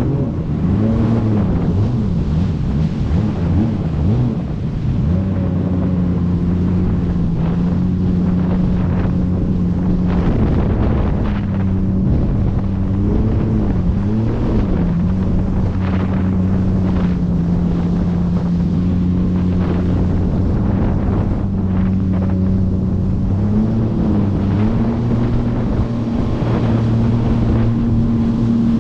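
Jet ski engine running at riding speed, its pitch rising and falling with the throttle during the first few seconds, again around the middle and near the end, and otherwise holding steady. Heavy wind buffets the microphone throughout.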